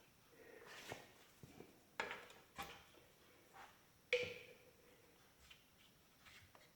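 Light metallic clinks and knocks of a part and tools being handled on an engine block. The loudest knock comes about four seconds in and rings briefly.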